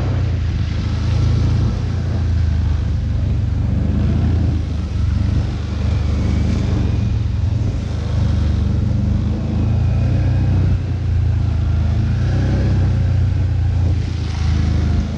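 ATV (quad bike) engine running at fairly steady, low revs, with mild rises and falls in pitch.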